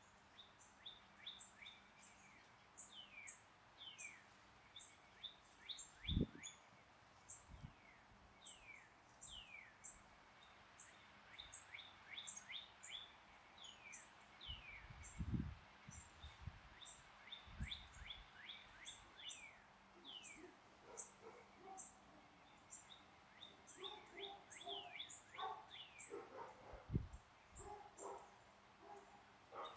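Several wild birds singing and calling: a stream of quick, very high chirps with repeated downward-sliding calls among them, and more varied lower notes later on. A few brief low thumps break in, the loudest about six seconds in and near the end.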